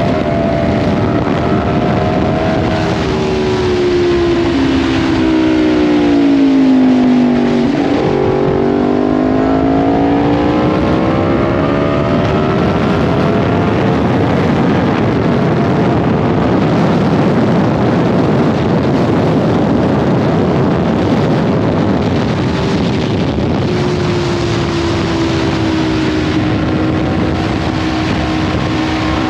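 Yamaha MT-10's crossplane inline-four heard on board while riding. The engine note falls for several seconds as the bike slows, then climbs again from about eight seconds in as it accelerates. Heavy wind rush on the microphone follows at speed, before a steadier engine tone near the end.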